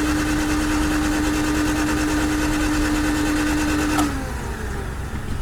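Starter motor cranking the 1991 Honda CRX Si's four-cylinder engine with the spark plugs out, a steady whine and churn that stops about four seconds in. The once-seized engine now turns over freely and makes oil pressure while cranking.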